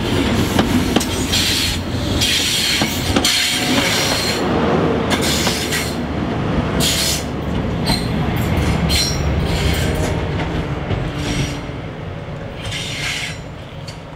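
High Speed Train passing at low speed: the wheels of the Mark 3 coaches rumble and clatter over the rail joints with repeated short squeals, under the hum of the rear power car's diesel engine, fading as the train moves away near the end.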